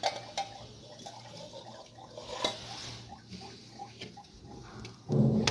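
Water dripping and trickling, with scattered small clicks and knocks from handling.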